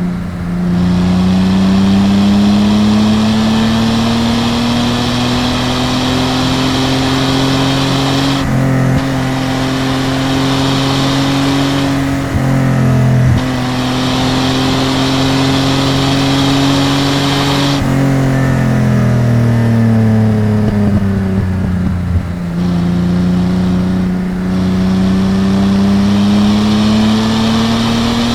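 1972 Datsun 240Z's 2.8-litre L28 inline-six engine and exhaust under way, climbing through the revs. The pitch dips briefly at gear changes about eight and thirteen seconds in, then holds steady. It winds down from about eighteen to twenty-two seconds as the throttle is lifted, then climbs again.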